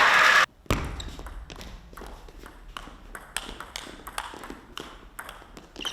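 Table tennis rally: the plastic ball clicking off the bats and the table in quick back-and-forth strikes. Crowd noise at the start cuts off suddenly about half a second in.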